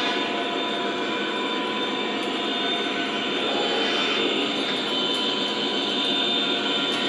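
O-scale model train running on three-rail track, a steady rolling and motor noise with no breaks.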